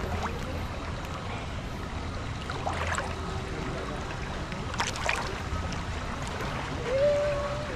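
Water park ambience: a steady rush of moving water, with a couple of short splashes about three and five seconds in. Near the end comes a brief held tone.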